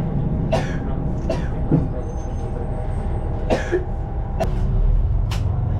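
KiHa 20 diesel railcar running, heard from inside the car: a steady low rumble with sharp clicks and knocks every second or so. The rumble grows louder near the end.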